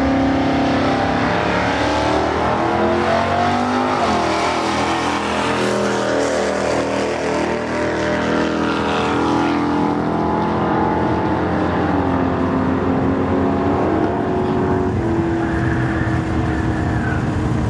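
A 1965 Dodge Dart's engine under full throttle on a drag-strip run, with a second car in the other lane. The engine pitch climbs and drops back twice as it shifts, passes close and then fades down the track. The owner reports the motor stumbling past the eighth-mile from an ignition or fuel fault.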